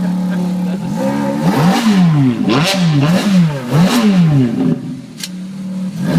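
Ferrari F430's V8 idling steadily, then blipped through several quick revs, each rising sharply in pitch and dropping back, before settling toward idle near the end.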